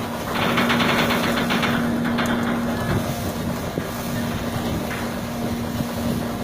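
A boat's engine running with a steady hum under wind and water noise, with a louder rushing surge from about half a second in that lasts over a second.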